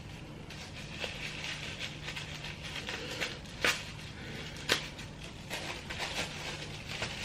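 Paper and cardstock being handled and rustled, with a few light taps and clicks as greeting cards are taken out of their packaging.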